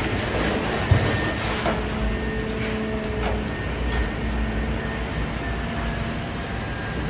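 Idromec T 650 CLS scrap metal shear baler running: a steady machine drone and hum with a sharp thump about a second in and a few lighter metal knocks.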